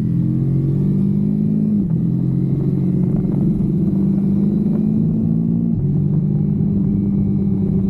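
Kawasaki Versys-X 250's parallel-twin engine running at steady revs, its note dipping briefly about two seconds in and stepping down near six seconds.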